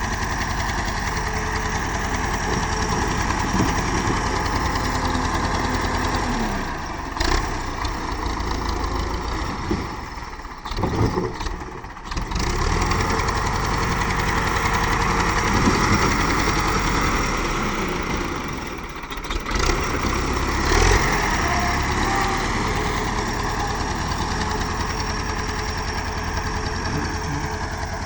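Tractor diesel engine running steadily, with its level dipping briefly about ten seconds in and again near nineteen seconds before picking back up.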